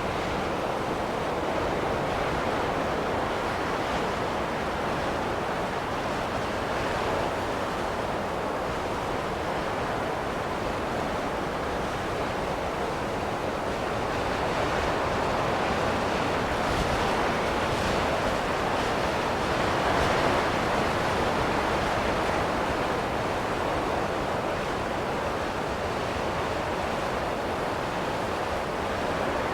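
Snowstorm wind blowing steadily as an even rush, swelling a little in the middle.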